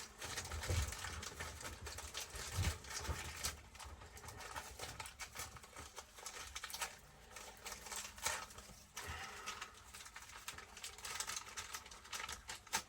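Small irregular clicks and light knocks of RC truck differential parts being handled and set down on a workbench.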